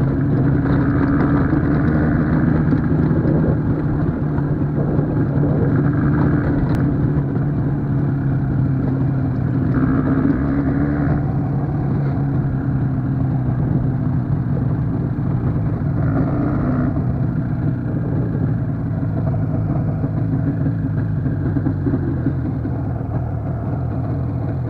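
IZh motorcycle's two-stroke engine running steadily under way, its note holding fairly even and easing a little in the later part.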